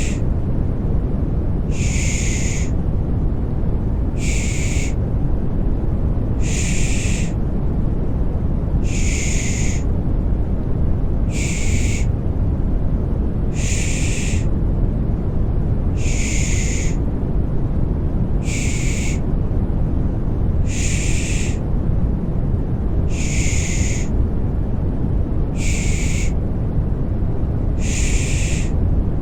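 Baby-soothing 'pış pış' shushing: a short 'shh' hiss repeats evenly about every two and a half seconds, over a steady, deep rushing white noise meant to mimic the sounds of the womb.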